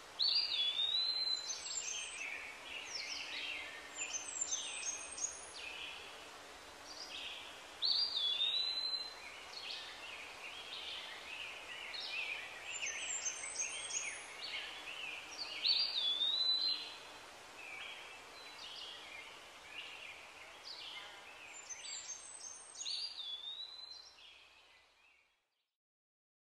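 Birdsong over a steady outdoor hiss. The same phrase of swooping whistles and quick chattering notes comes back about every seven or eight seconds, then fades out just before the end.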